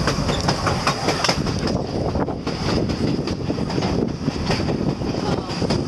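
Passenger train running on the rails, heard from aboard: a steady rumble and hiss with irregular sharp clicks from the wheels.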